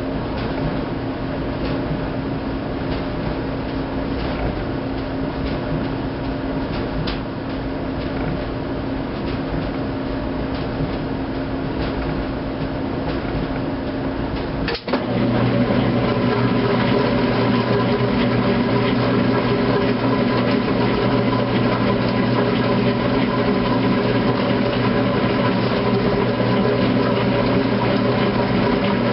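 2008 Kenmore washing machine humming steadily while paused between agitation and drain. About halfway through it clicks, then its motor starts and runs louder and steady as the drain begins.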